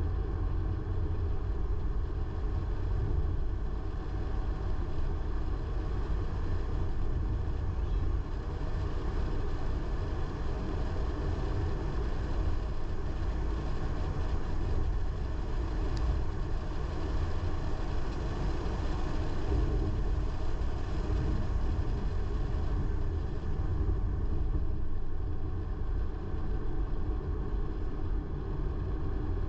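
A car driving steadily: a constant low rumble of engine and road noise, with a single faint click about halfway through.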